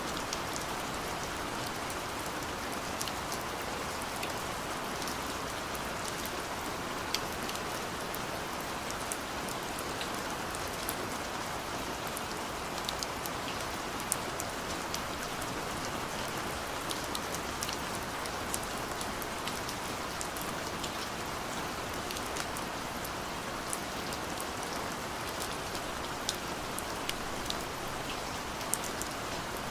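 Steady rain falling, an even hiss with scattered sharp drips and ticks of individual drops striking a surface.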